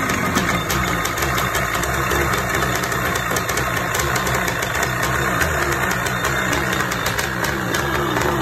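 Kawasaki 650 X2 650cc two-stroke engine running steadily at idle, with a rapid, even low-pitched beat and a fine clatter over it.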